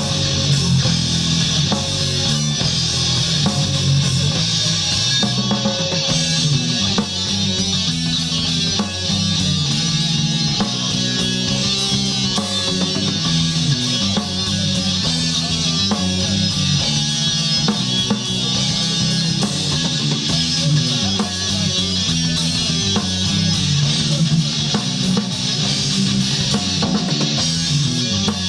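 Rock band playing live: guitars over bass and a drum kit, an instrumental passage with no singing.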